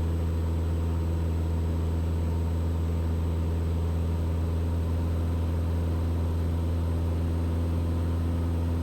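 Single-engine Mooney M20E running steadily at climb power, a constant engine-and-propeller drone heard from inside the cockpit.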